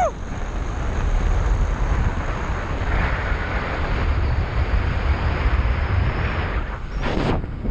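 Wind rushing over the microphone during a fast zipline descent, a steady loud buffeting.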